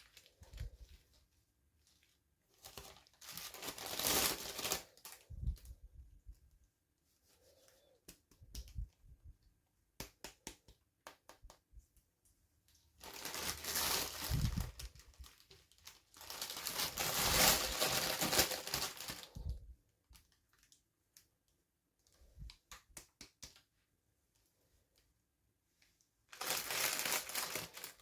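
Toy packaging crinkling and tearing as a miniature toy is unboxed, in several bursts of a few seconds each, with scattered small clicks in between.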